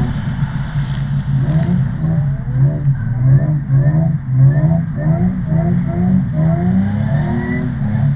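Drift ute's engine running hard, its pitch rising again and again in quick surges about twice a second over a steady low drone, as the throttle is worked repeatedly while drifting.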